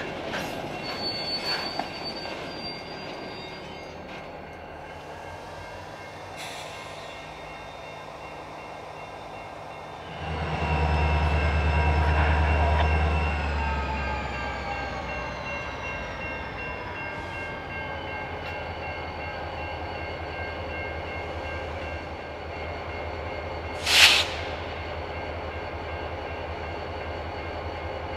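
Freight train rolling past: boxcar wheels rumbling on the rails, then Illinois Central diesel locomotives running, with a sudden, louder engine rumble about ten seconds in. A faint slowly falling whine follows, and there is one brief, sharp loud squeal or clank near the end.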